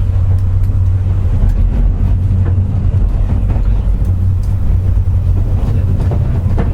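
Running noise inside a JR West 201 series electric train's motor car: a steady low rumble with a few faint clicks, as the train runs slowly behind a delayed train ahead.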